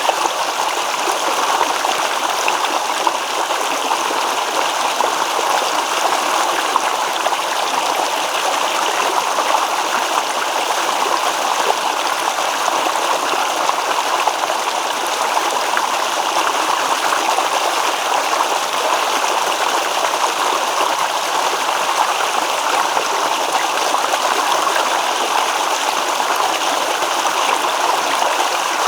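Small stream babbling and trickling steadily over rocks.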